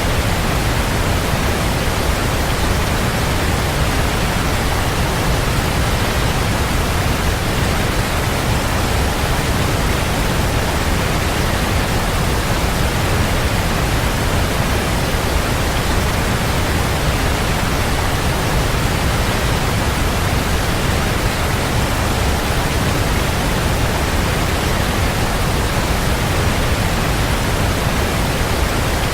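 Waterfall: a steady, unbroken rush of falling water, full and deep, with no separate splashes standing out.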